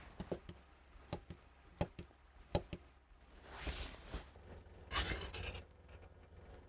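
Cooking gear being handled during food preparation: a few light, sharp knocks and clicks in the first three seconds, then two short scraping rustles in the middle.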